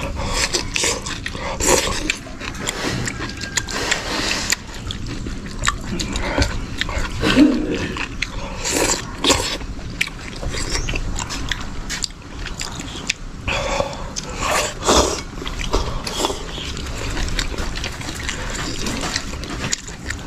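People eating noodle slices: chewing and slurping, with scattered short clicks and knocks.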